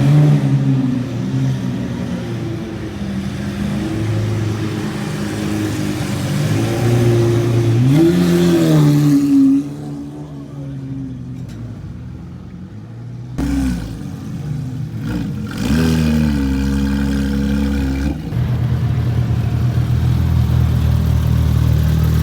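Supercar engines running close by, idling with short throttle blips that rise and fall in pitch about eight seconds in and again around fifteen seconds. A deeper, louder engine rumble takes over for the last few seconds.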